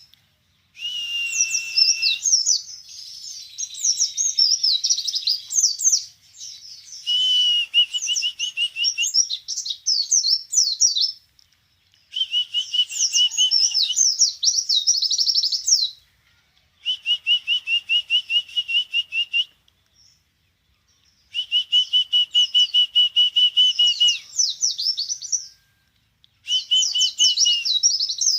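A songbird singing in bouts of a few seconds, about seven in all, with short pauses between them. Each bout is a rapid trill held on one pitch, overlaid with quick, high warbled notes.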